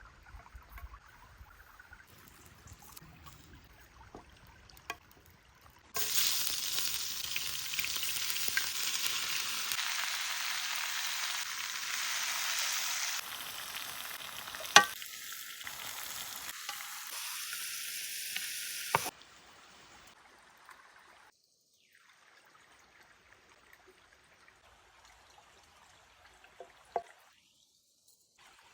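Food sizzling in a hot pan: a loud, even hiss that starts suddenly about six seconds in and cuts off abruptly around nineteen seconds, with one sharp clack of utensil or pan partway through. Before and after it there are only faint scattered clicks.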